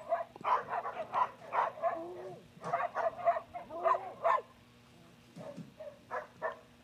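A dog barking and whining in a quick run of short calls, then a few fainter ones near the end.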